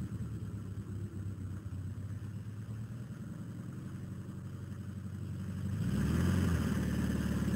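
Car engine running at a steady low idle, then revving up about six seconds in, rising in pitch and getting louder.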